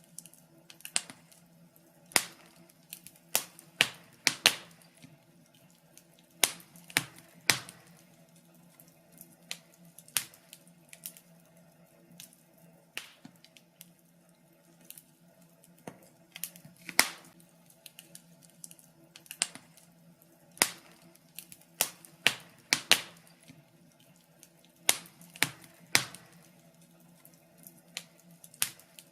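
Wood fire crackling: sharp, irregular pops and snaps, some in quick clusters, over a faint steady low hum.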